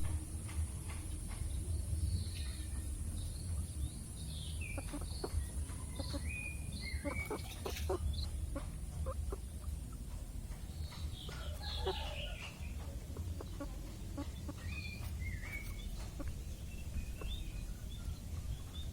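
Chickens clucking and calling in short, scattered calls over a steady low rumble, with a faint high whine that fades out about halfway through.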